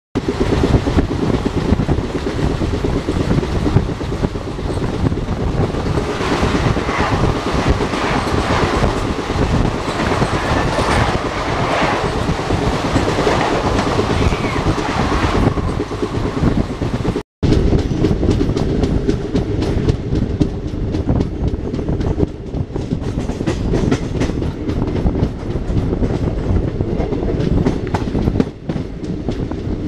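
A passenger express train running at speed, heard from on board, with wheels clattering over the rail joints under a steady rumble of running noise. The sound cuts out for a moment about 17 seconds in, then carries on the same way.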